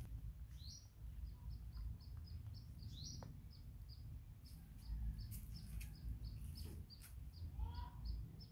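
Small bird chirping in a long series of short high notes, about four a second, with a few louder upward-sweeping calls mixed in. A low, steady rumble runs underneath.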